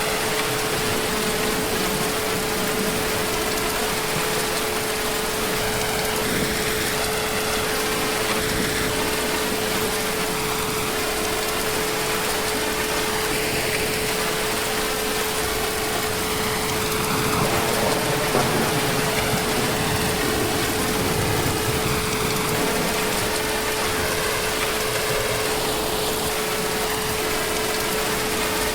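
Heavy rain falling steadily, an even dense hiss with a slight swell about two-thirds of the way through. A steady hum-like tone runs underneath.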